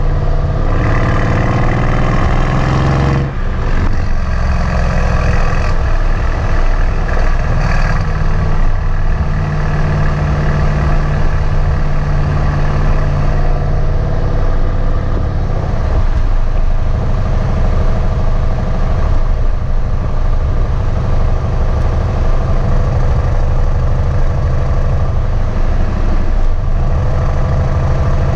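Mercedes-AMG C63 S's twin-turbo V8 running loud through its stock exhaust with the flaps open. The pitch climbs over the first three seconds, then drops off suddenly. After that the engine holds a fairly steady note with smaller rises and falls.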